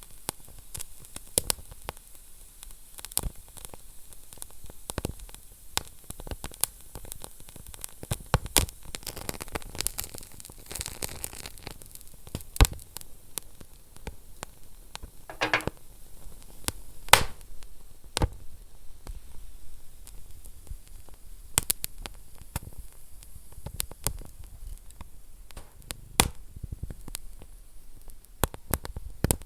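Wood fire burning in a fireplace: a steady soft hiss with irregular crackles and pops, a few louder snaps, and a brief hissing flare about halfway through.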